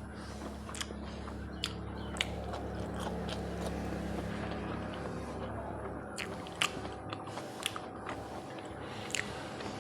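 Close-miked eating sounds: a person chewing, with scattered sharp wet mouth clicks and smacks. A low steady hum underneath drops away about seven seconds in.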